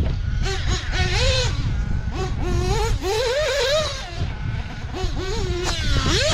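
O.S. Speed 21 XZ-B two-stroke nitro engine of a Mugen MBX8R 1/8 buggy, revving up and backing off again and again, its high pitch rising and falling several times, over a steady low rumble.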